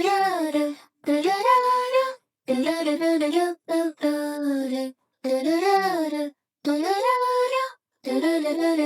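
A child-like singing voice, AI-generated, singing short melodic phrases with no accompaniment, each phrase broken off by a brief silence.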